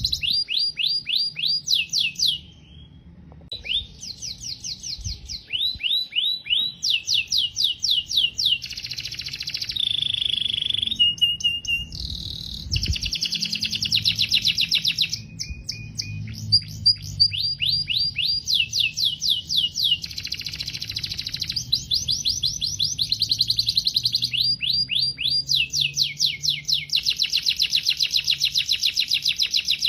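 Domestic canary singing a long song of rapid trills, each phrase a fast run of repeated falling notes, changing from one phrase type to the next with a brief pause about two seconds in.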